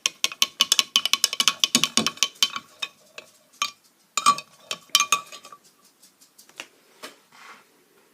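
Rapid light clinking taps on a hard, glassy surface, several a second with a short ringing tone, for about two and a half seconds. Then a few scattered taps, with the last ones faint near the end.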